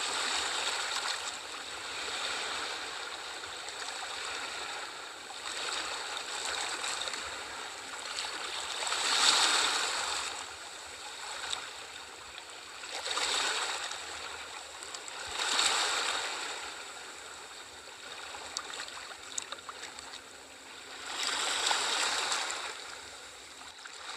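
Ocean waves washing in and drawing back, the rush of surf swelling and fading every few seconds, the loudest wave about nine seconds in.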